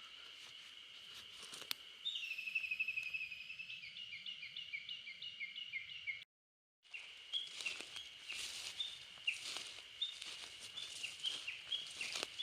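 Small birds singing, with quick runs of short repeated chirping notes, over a steady high-pitched drone. The sound drops out completely for about half a second midway, then the chirping resumes with scattered light clicks.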